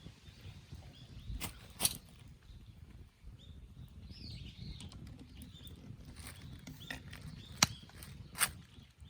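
Four sharp hard knocks, two about a second in and two near the end, like something rock-hard being tapped, with faint birdsong chirping in between.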